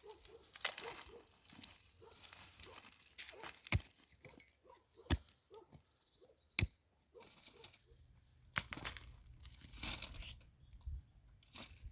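Rustling and crinkling handling noise with three sharp clicks, spread over several seconds.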